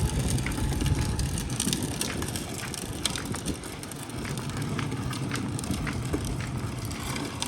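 Irregular crunching and crackling, many small sharp clicks, over a steady low rumble, as of something moving over rough ground outdoors.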